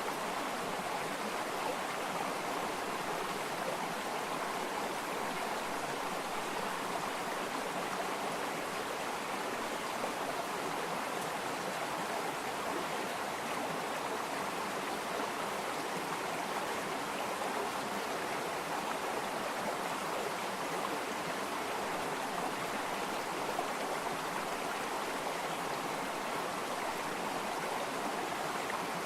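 Water flowing steadily in a stream, an even rushing and burbling that doesn't change.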